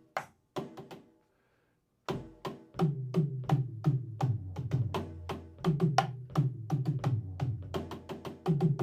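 Drum kit being played by a beginner: a few single strokes, a short pause, then from about two seconds in a steady practice pattern of hits at roughly four to five a second, with the deep ring of a low drum under them.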